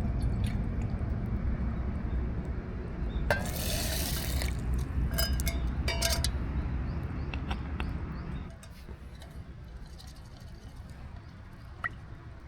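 Camp cooking sounds: a brief pour or splash of liquid and a few light clinks of cookware, over a steady low rumble that stops about eight and a half seconds in.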